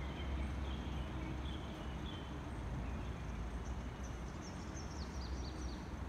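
Birds chirping over a steady low rumble: short high notes in the first couple of seconds, then a run of quick, higher, falling chirps in the second half.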